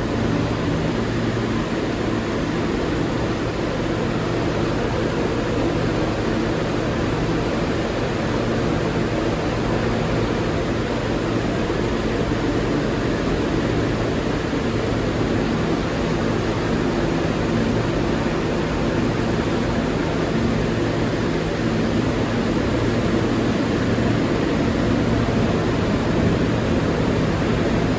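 Steady noise inside an R143 subway car: an even rush with a few constant low hums, no distinct clanks or changes.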